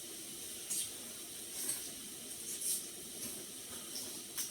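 Hot pot broth simmering with a faint steady hiss, with a few short, sharp, high-pitched noises.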